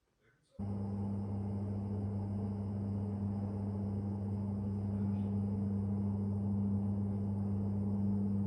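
An electric appliance switches on about half a second in and runs with a steady low mains hum and a rushing noise.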